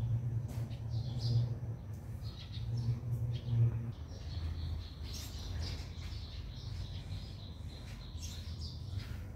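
Small birds chirping on and off, with a low steady hum underneath that is strongest for the first four seconds.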